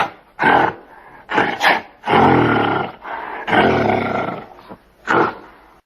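Gorilla vocalising: a run of about five loud, rough roaring calls of differing length, the longest about a second, with short gaps between them.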